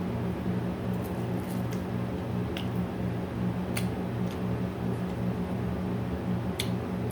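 Close-up eating sounds: a handful of sharp mouth clicks and smacks, a second or so apart, over a steady low hum.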